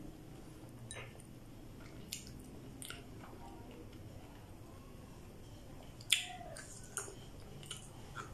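A person biting and chewing okra pods: a few short sharp clicks over faint mouth sounds, the loudest about six seconds in.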